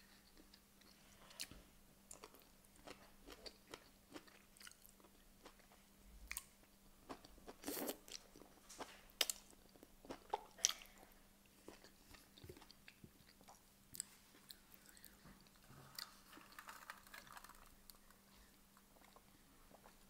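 Close-miked eating: a person biting and chewing cooked asparagus, with faint crunching and small wet mouth clicks and a few louder bites around eight and ten seconds in. A faint steady hum sits underneath.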